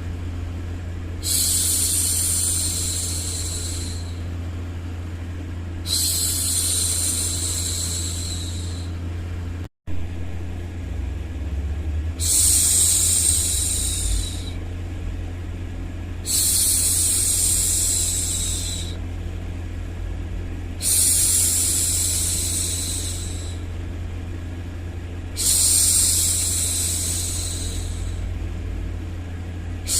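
A woman's voice hushing 'shhh' over and over, each shush lasting two to three seconds and coming about every four to five seconds, over a steady low hum of white noise. The sound cuts out for a split second about ten seconds in.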